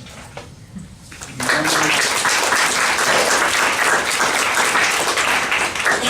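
Audience applauding: the clapping breaks out about a second and a half in, holds steady, and fades near the end.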